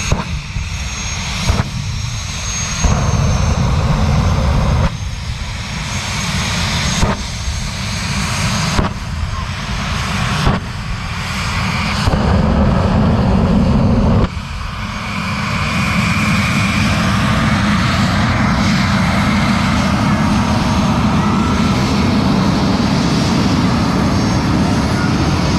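The Homewrecker jet truck's twin General Electric J85 afterburning jet engines running loud. For the first half the sound surges and drops off abruptly every second or two, then it holds steady.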